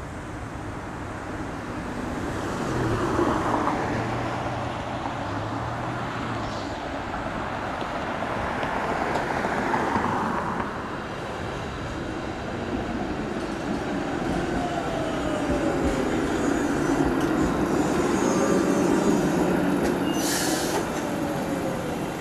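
TTC CLRV streetcar running past on street track: a rumble that swells and fades, with a whine that slides in pitch in the second half. A short hiss comes near the end.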